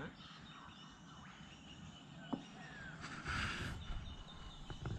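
Quiet outdoor background with a sharp click a little before the middle, a short rushing hiss about three seconds in, and a couple of light clicks near the end.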